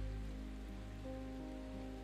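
Soft, slow background music of held chords playing over steady rainfall.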